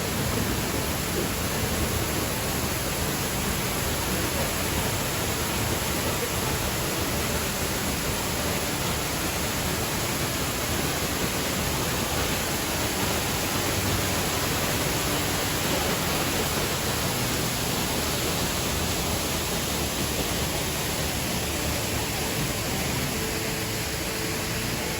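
Steady rush of falling water from a waterfall, an even, unbroken noise with no change in level.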